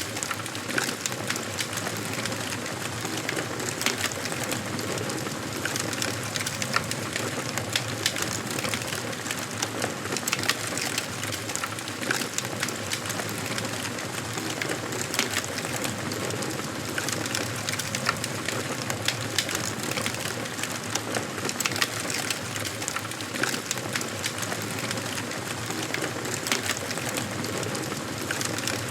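Wood fire burning in a fireplace: a steady hiss with frequent irregular crackles and sharp pops from the burning logs.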